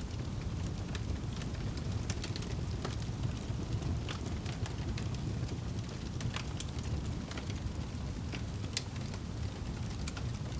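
Wood fire crackling in a fireplace: many scattered sharp snaps and pops over a steady low rumble of the flames.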